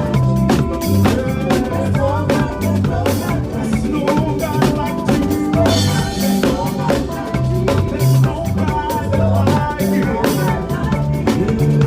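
Makossa-style praise music with a drum kit playing a busy groove of kick, snare and rimshot hits over a bass line and other instruments.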